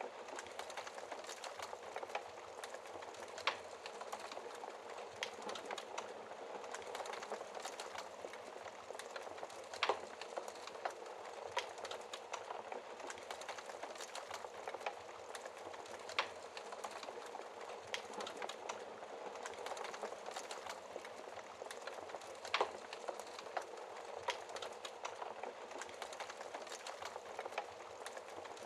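Wood fire in a fireplace crackling: a steady soft hiss of flames with frequent small pops, and sharper snaps of burning logs every few seconds.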